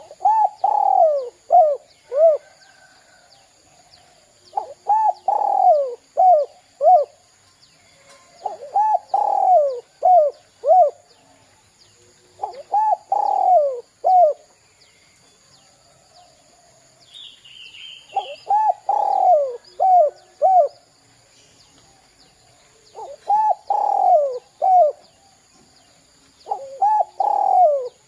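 Spotted dove (derkuku) singing its cooing song over and over, seven phrases about four seconds apart. Each phrase is a long falling coo followed by two short clipped notes: the two-'kuk' ending that keepers call 'kuk 2'. A faint steady high-pitched whine runs underneath.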